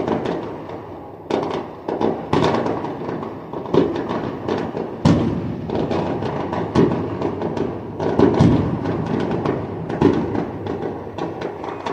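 A barrage of fireworks going off: a few louder booms about every second or two over continuous dense crackling.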